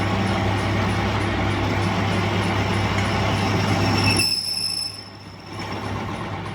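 Metalworking machinery running with a steady low hum and harsh metallic noise. It falls away sharply about four seconds in, with a brief high squeal, then runs on more quietly.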